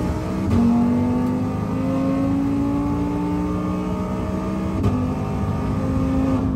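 Twin-turbo Mustang GT V8 at full throttle, heard from inside the cabin, climbing steadily in pitch under hard acceleration. Its 10-speed automatic upshifts about half a second in and again near 5 seconds, each shift briefly dropping the pitch.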